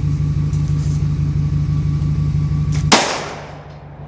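A steady engine-like drone, then about three seconds in a single sharp, loud bang from a flash-powder exploding arrow going off, its tail fading over about a second. The drone drops away after the bang.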